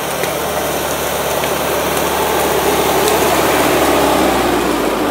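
Off-road 4x4's engine running under load with a dense, steady noise, getting gradually louder.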